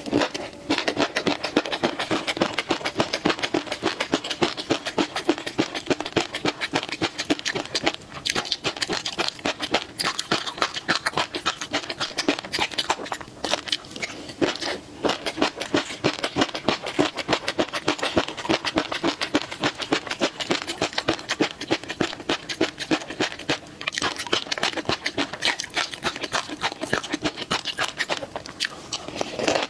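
Close-miked chewing of a crunchy peanut and minced-meat mixture with fish roe: dense, rapid crunches and wet mouth clicks, pausing briefly a few times between mouthfuls.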